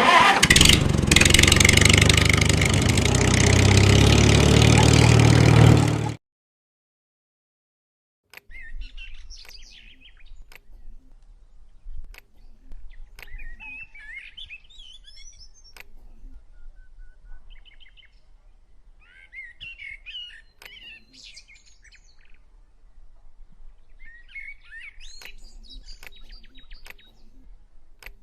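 Small birds chirping in short, scattered calls over a faint low hum with occasional clicks. Before the birds come in, a loud rushing noise with a strong low rumble lasts about six seconds and cuts off suddenly.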